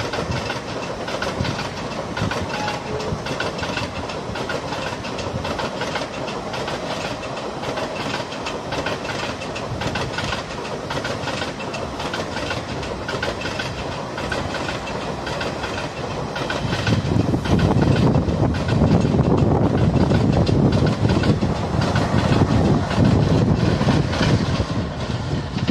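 Parcel train vans rolling past, their wheels giving a steady clickety-clack over the rail joints. About two-thirds of the way through, a heavier, louder rumble comes in.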